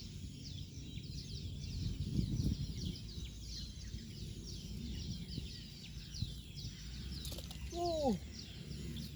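Birds chirping outdoors: a dense, continuous run of quick, high chirps that each fall in pitch. Low rustling and handling noise sits underneath. Just before the end comes a short lower call that slides down in pitch.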